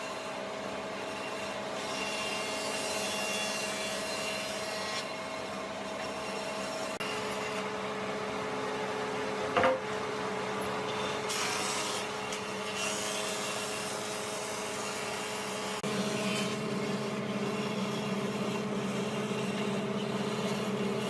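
Wood being rubbed and scraped by hand over a steady machine hum, with one sharp knock about ten seconds in; the hum grows stronger a few seconds later.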